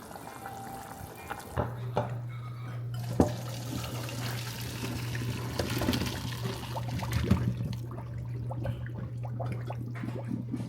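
Kitchen tap running water into a pot, with a few sharp knocks of the pot being handled near the start. A steady low hum comes in about a second and a half in.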